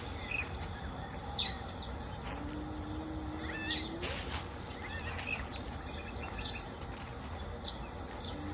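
Birds chirping in short, scattered calls. A low held tone lasts about a second and a half in the middle and slides upward at its end, and a sharp click comes about four seconds in.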